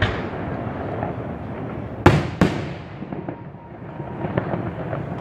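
Aerial fireworks shells bursting, with two loud bangs in quick succession about two seconds in. Dense small crackling from the falling stars runs between the bangs.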